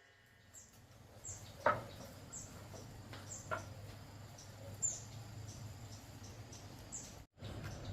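A small bird gives short, high chirps that fall in pitch, repeating about once a second. Two sharp knocks come in the first half, the first one the loudest sound.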